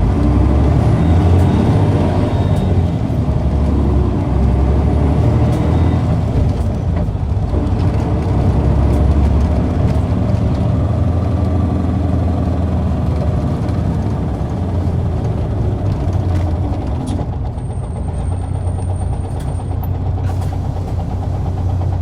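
Isuzu Erga city bus (PKG-KV234L2) diesel engine and drivetrain heard from inside the bus under way, its drone stepping up and down in pitch, then settling lower and quieter after about 17 seconds as the bus eases off. The engine is one the uploader marks as having a slight abnormal noise. A thin high whine joins for a couple of seconds near the end.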